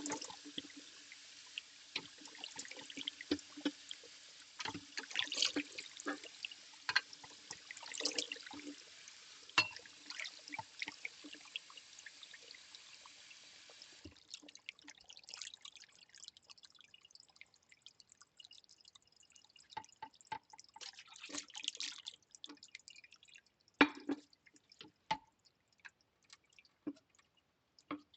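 Hand-washing ceramic plates in a kitchen sink: a tap runs steadily with clinks and splashes, then is shut off about halfway through, leaving drips and scattered clinks of ceramic.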